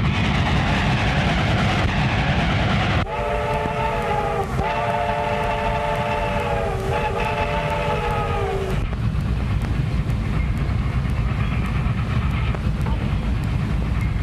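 Steam train whistle blowing three long chord-like blasts, starting about 3 seconds in and stopping about 9 seconds in, each sagging a little in pitch as it ends, over the steady low rumble of the running train.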